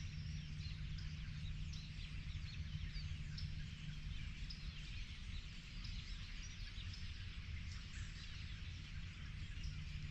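A chorus of songbirds: many short chirps and trills from several birds overlapping, over a low steady rumble.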